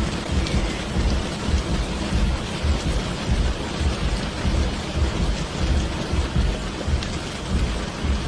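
Steady heavy rain with a low, rolling rumble of thunder underneath.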